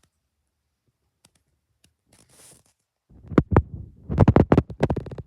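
Loud close-up scratching and rubbing right against the microphone, a dense run of irregular crackles with a low rumble, starting about three seconds in.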